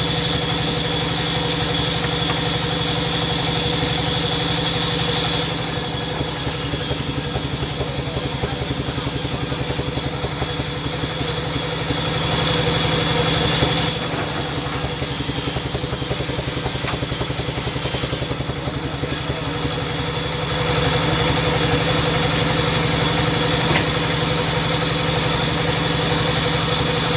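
Sawmill machinery running: a steady mechanical drone with a constant hum, the higher hiss dropping away briefly twice.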